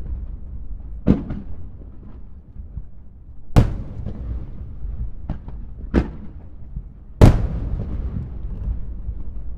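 Aerial firework shells bursting: four sharp booms about one to two and a half seconds apart, the second and fourth the loudest, with a low rumble carrying on between them.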